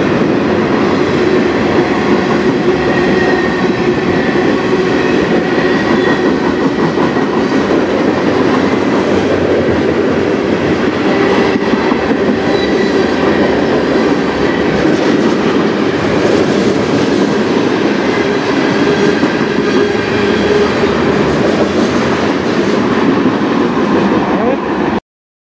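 Freight train cars rolling steadily past, with wheels clacking over the rail joints. The sound cuts off suddenly near the end.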